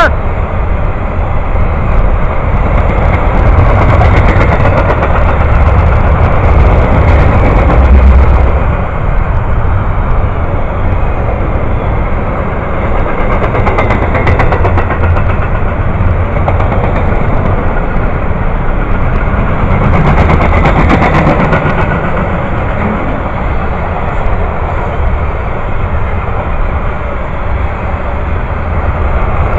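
Long freight train rolling past at close range: a steady, loud rumble of wheels on the rails with faint irregular clicking.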